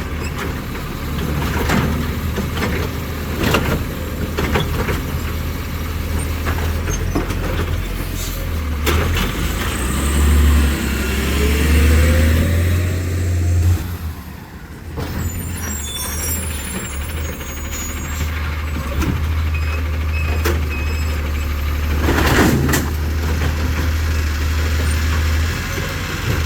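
Autocar ACX New Way Sidewinder side-loader garbage truck's engine running, revving up with a rising pitch about halfway through. Scattered knocks and clanks throughout, and a short air-brake hiss near the end.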